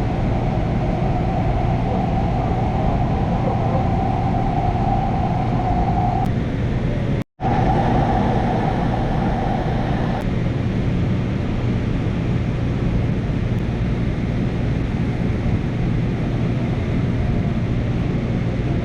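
LA Metro A Line light-rail train running, heard from inside the car: a steady rumble with a steady whine over it. The whine stops about ten seconds in, with a momentary dropout to silence about seven seconds in.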